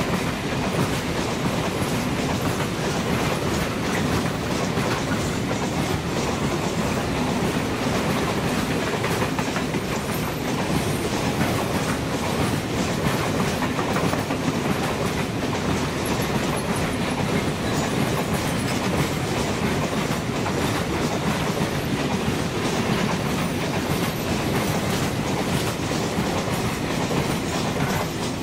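A Renfe train running past on the rails: a steady, loud rumble of wheels on track with clickety-clack over the rail joints, lasting throughout.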